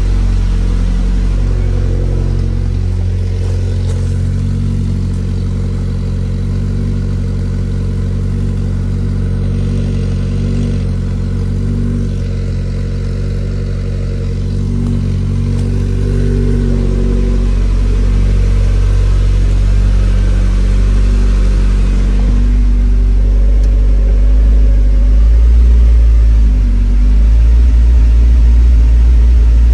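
Nissan 240SX's turbocharged KA24DET four-cylinder engine running steadily on its first start after the build, not yet tuned. It gets a little louder and deeper in the last few seconds.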